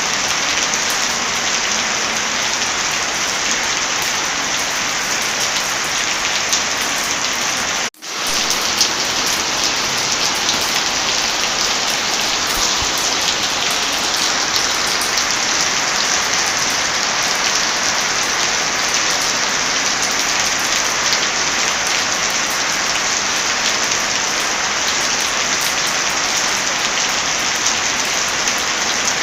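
Heavy rain falling steadily, a dense even hiss, with a momentary dropout about eight seconds in.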